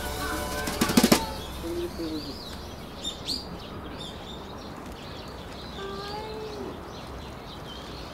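Small birds chirping with short, scattered high calls over a quiet outdoor background, and a few sharp clicks about a second in.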